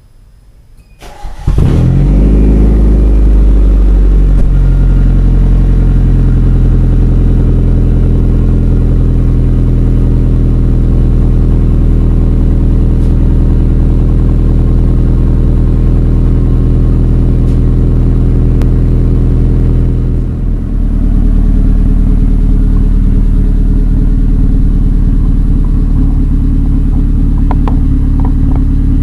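Car engine starting about a second in, then running steadily and loudly at a fast idle. Its note changes about twenty seconds in and then settles again, with a few light clicks near the end.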